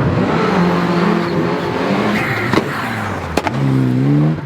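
A rally car's engine revs hard as the car accelerates past, rising in pitch and dropping back at gear changes. Sharp cracks from the exhaust come about two and a half seconds in and again near the end.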